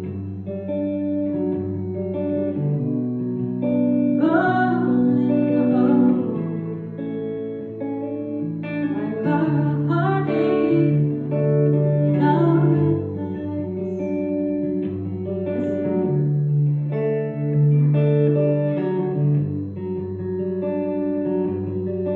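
Live band music led by guitar, with sustained notes over low bass notes that change every couple of seconds.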